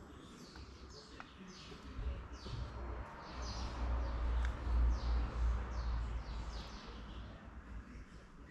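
Wind buffeting the microphone as a low rumble that swells in the middle and dies down near the end, with small birds chirping throughout in quick, high, falling notes.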